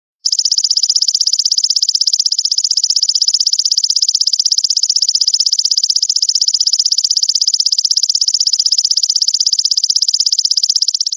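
Belalang (grasshopper-type insect) call, a loud high buzz made of fast, evenly repeated pulses that starts a fraction of a second in after silence and holds steady.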